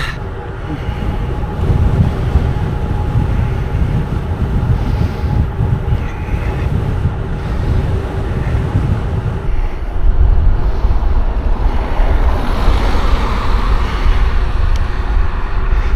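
Wind buffeting the microphone and road noise from a bicycle descending at speed, with a louder rush of noise in the last few seconds.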